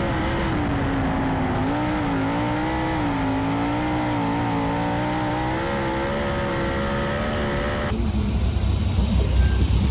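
410 sprint car engine running hard on a dirt track, its pitch rising and falling as it goes through the turns. About eight seconds in, the sound changes abruptly to a louder low rumble.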